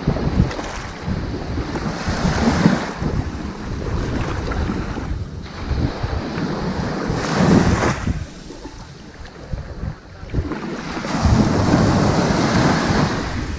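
Ocean waves breaking and washing up onto a sandy beach, the surf swelling and easing three times, about five seconds apart.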